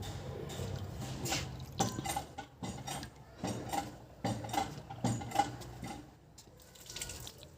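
Metal objects clinking and knocking together several times, each strike with a short ring, over a low steady hum; the strikes stop near the end.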